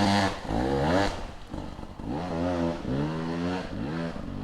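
Beta 200 two-stroke dirt bike engine revving up and dropping back several times in a row, the pitch rising with each twist of the throttle, getting a little quieter near the end.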